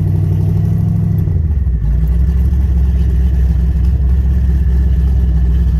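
Twin-turbocharged 6.0 LQ4 V8 in a 1983 Chevrolet Impala running on its first drive, untuned. Its note drops about a second and a half in, then holds steady and low.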